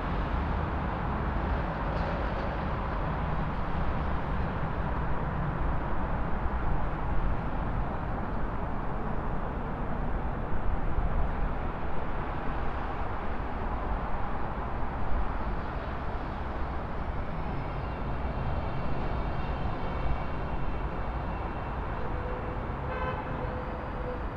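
City traffic noise: a steady rumble of passing vehicles, with car horns sounding in the second half.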